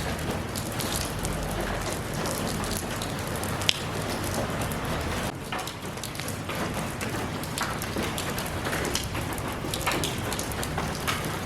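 Steady rain falling, a continuous hiss with close drops ticking and spattering on surfaces, one sharper drop hit about four seconds in.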